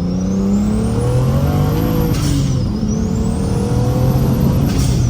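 Big single-turbo BMW N54 inline-six with a straight-pipe exhaust at full throttle under about 24 psi of boost, with a turbo whistle rising alongside the revs. About two seconds in, an upshift drops the revs and the whistle with a short rush of air, then the engine pulls again and shifts once more near the end.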